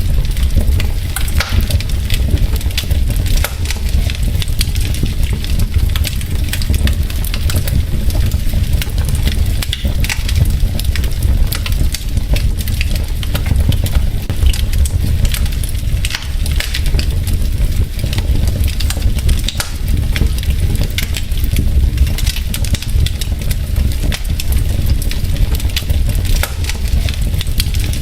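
Wood logs burning in a fireplace, crackling: many sharp pops and snaps over a steady low rumble of the fire.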